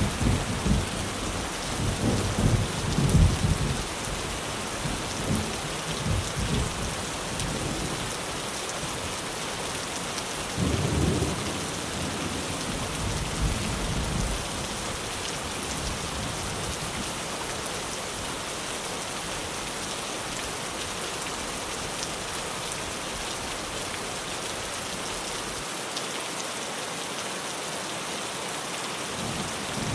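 Heavy rain drumming steadily on a tin roof, with low rolls of thunder rumbling in the first few seconds and again around a third of the way in, then only the rain.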